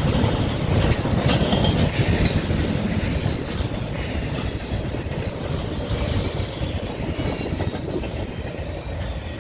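Double-stack intermodal freight train rolling past, its steel wheels rumbling steadily on the rails. It fades a little near the end.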